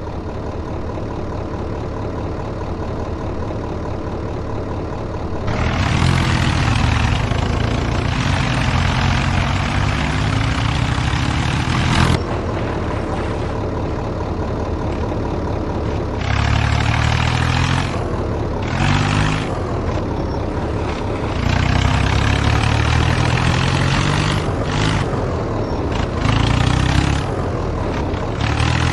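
John Deere and New Holland diesel tractors pulling against each other in a tug of war. The engines labour under heavy load and rev up hard in repeated surges, the first long one about six seconds in, with a steadier, lower engine note between them.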